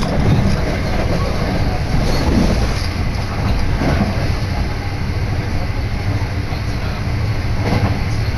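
Steady running noise of a JR Kobe Line electric commuter train at speed, heard from inside the carriage, with wind rushing in at an open window.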